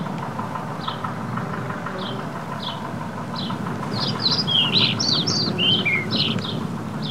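Recorded birdsong of the kind used as calming nature sounds: a bird repeats a short high chirp about once a second, and a livelier burst of twittering song joins about four seconds in before fading back to the single chirps. A steady low background noise runs underneath.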